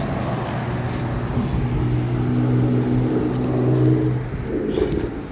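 A car engine running close by: a steady hum that grows louder and then drops away about four and a half seconds in.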